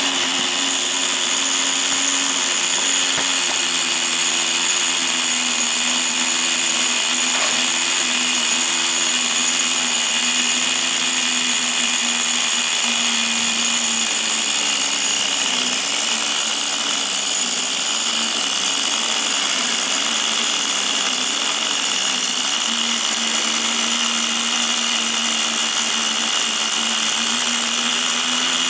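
Small glow-fuel engine of a Tamiya TGS 1/10-scale RC car running steadily at high revs, with a strong high hiss; its pitch wavers up and down around the middle, then settles again.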